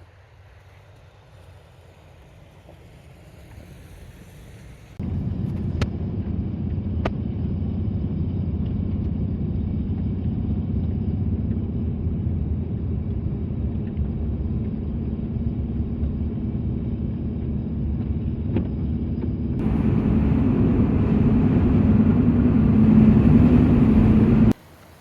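Vehicle driving: a steady low road and engine rumble that starts abruptly about five seconds in, grows louder with more hiss later on, and cuts off suddenly just before the end.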